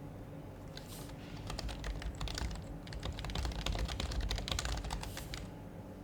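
Typing on an HHKB Professional HYBRID Type-S keyboard, its silenced Topre capacitive keys giving soft, muted clacks. A quick, irregular run of keystrokes starts about a second in and stops shortly before the end.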